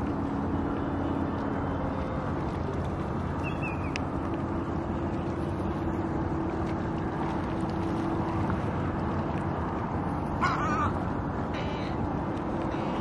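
Steady outdoor wind-and-water noise with a faint low hum, broken by a few short bird calls: a falling call about three and a half seconds in, then two brief wavering calls near the end.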